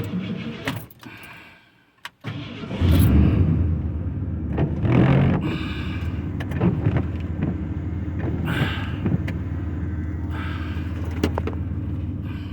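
A few sharp clicks, then about two seconds in a pickup truck's engine starts, swells briefly and settles into a steady low idle.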